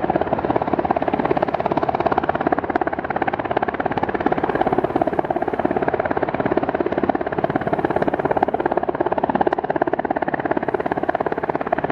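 Coast Guard helicopter hovering while it works its rescue hoist, the rotor making a fast, steady beating pulse that is loud and unbroken.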